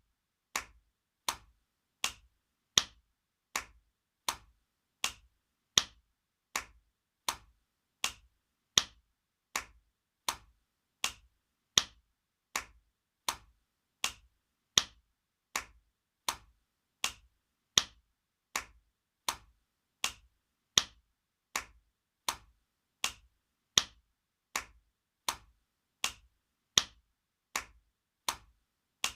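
Spanking sound effect: sharp slaps repeated at an even pace, a little over one a second, each smack cutting off almost at once.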